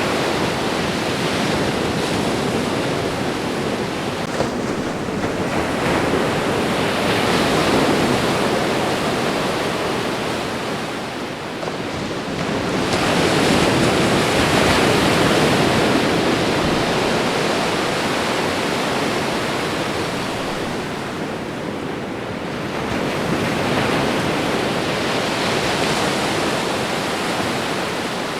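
Ocean surf washing onto a shore: a continuous rush of breaking waves that swells and ebbs about every ten seconds.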